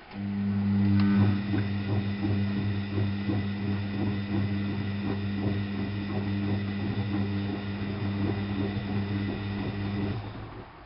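Washing machine drain pump switching on and running with a loud, steady mains hum and an irregular gurgling rattle as water is pumped out, then cutting off about ten seconds in.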